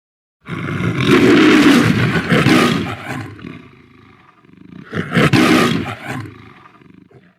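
MGM logo lion roar sound effect: a long roar starting about half a second in and fading after about three seconds, then a second, shorter roar about five seconds in that dies away.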